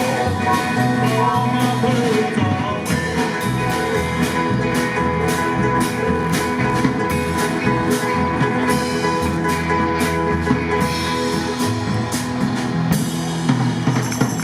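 A live rock band playing an instrumental passage: electric guitar and other instruments hold steady notes over a drum kit, whose regular strikes drop out near the end.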